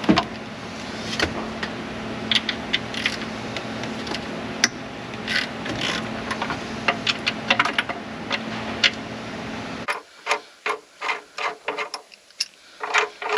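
Hand ratchet wrench clicking in short runs, over a steady hum that cuts off abruptly about ten seconds in.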